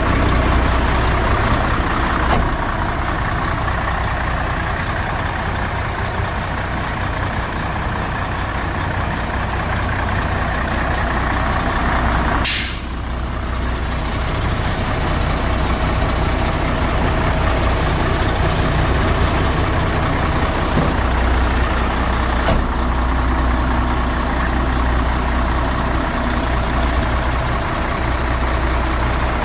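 Mercedes-Benz Actros 2643 tipper truck's diesel engine running steadily at idle, a low even hum. About twelve seconds in comes one short, sharp hiss, typical of the truck's air brake system venting.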